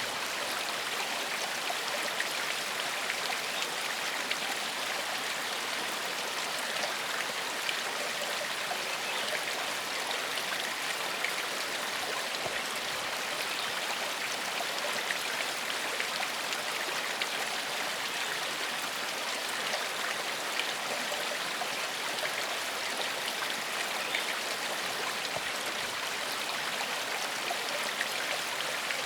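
Small forest stream flowing over stones: steady, even rushing with fine splashing and trickling.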